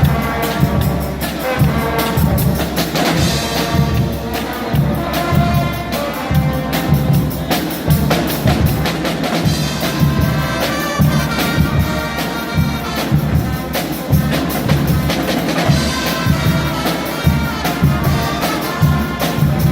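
Guggenmusik band playing live: loud brass (trumpets and trombones) over a steady beat of drums and bass drum.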